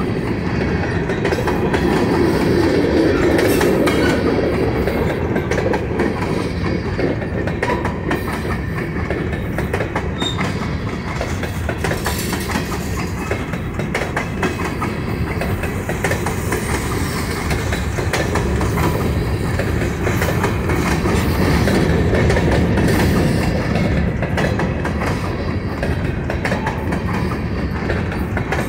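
Railroad cars rolling past on the track: a steady rumble with wheel clatter over the rail joints.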